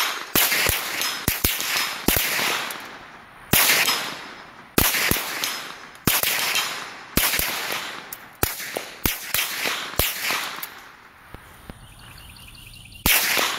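.22 rimfire guns firing a long, irregular string of shots, some in quick succession, each with a short echo. The shooting pauses for about two seconds near the end before one last shot.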